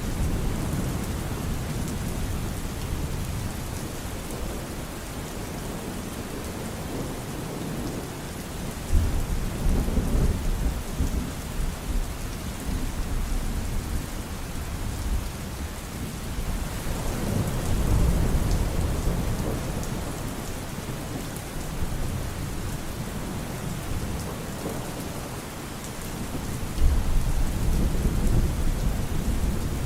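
Steady rain falling, with thunder rumbling three times: about nine seconds in, around seventeen seconds, and again near the end.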